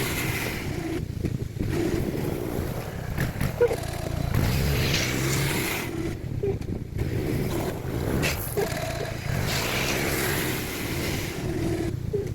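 Bombardier Quest 650 ATV engine running under load, its pitch and loudness rising and falling as it works.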